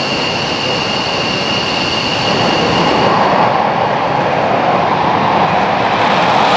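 Fighter jet engine running loud, with a high turbine whine that fades about three seconds in as a broad roar swells.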